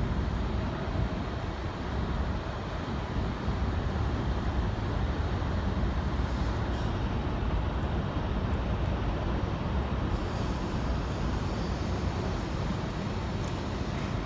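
Steady low rumble of railway and city background noise, with a train running in the distance; no distinct events stand out.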